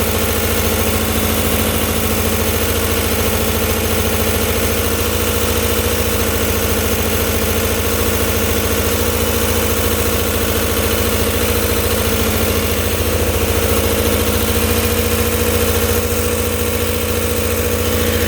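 Air-cooled VW engine fitted with a 69 mm stroker crankshaft and a Weber progressive carburettor, idling steadily at an even speed.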